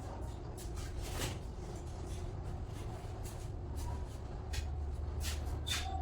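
Scattered light clicks and knocks of objects being handled, a dozen or so irregular taps, over a steady low hum.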